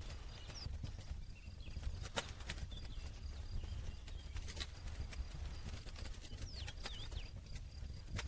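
Campfire burning, with irregular sharp crackles and pops over a low steady rumble; the loudest pops come about two seconds in and near the middle. A few faint high bird chirps come in near the start and again near the end.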